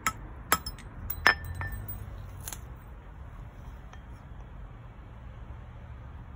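Hammer tapping a metal ring on a steel ring mandrel: about five sharp metallic clinks in the first two and a half seconds, one ringing briefly, then only a low background.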